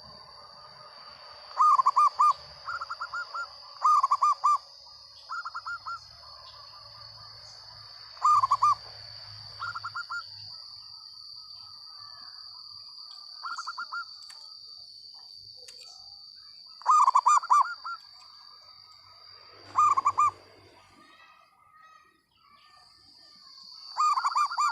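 Zebra dove (perkutut) cooing in six phrases several seconds apart, each opening with a loud burst of rolling coos, several followed by a few softer, higher coos. A steady high-pitched whine runs underneath.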